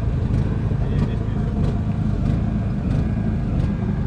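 A steady low mechanical drone of a running motor, with a faint regular tick about every two-thirds of a second.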